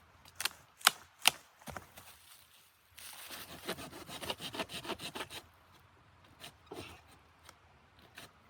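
Three sharp knocks about a second apart, then a couple of seconds of quick, rough scraping strokes starting about three seconds in, and a few faint handling sounds after.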